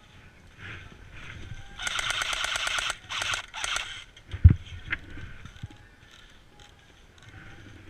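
Airsoft rifle firing on full auto: a rapid rattle of about thirteen shots a second lasting about a second, then two short bursts. A single dull thump follows.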